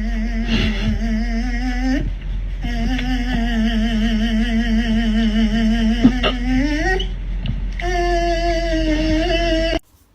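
A voice holding long, wavering notes at a low pitch, breaking off briefly about two seconds in, then stepping up to a higher held note about seven seconds in before cutting off abruptly.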